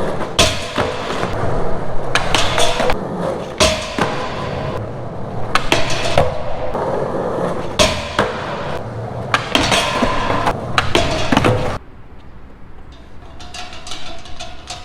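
Skateboard wheels rolling on concrete with repeated sharp knocks of the board popping and landing, echoing in a parking garage. The rolling and knocks stop abruptly about twelve seconds in, leaving a quieter rolling sound.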